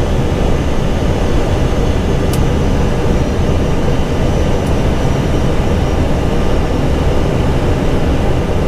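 Steady rush of airflow and engine noise in an Airbus A320 cockpit on final approach, with landing gear down and full flaps, and a couple of faint ticks.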